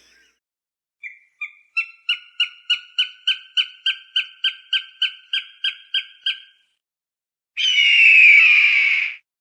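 Falcon calling: a quick series of sharp repeated cries, about three a second, growing louder, then near the end one long harsh scream, the loudest call.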